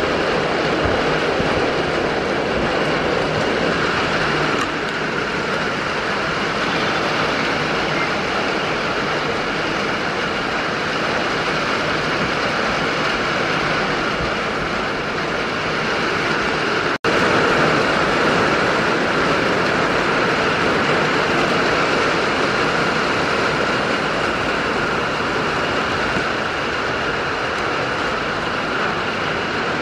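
Rain falling on a corrugated metal roof: a steady, loud hiss with no let-up, broken for an instant just past halfway.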